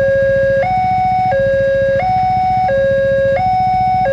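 Railway level-crossing warning alarm sounding, a two-tone electronic signal alternating high and low, each tone held about two-thirds of a second.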